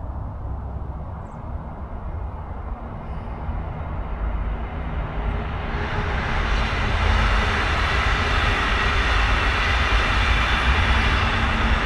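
Brightline passenger train passing at speed: a low rumble from the start, then a loud rushing of wheels and air that swells about six seconds in and holds.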